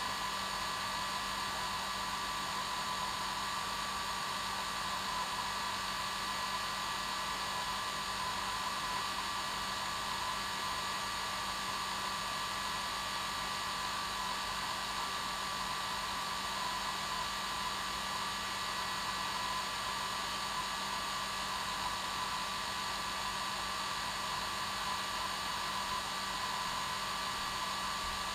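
Hair dryer running steadily on its normal setting: an unchanging rushing hiss of air with a steady motor whine and low hum underneath.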